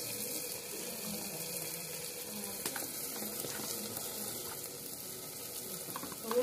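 Chicken and spices sizzling in oil in an open aluminium pressure cooker: a steady hiss with faint small crackles, and one short knock near the end.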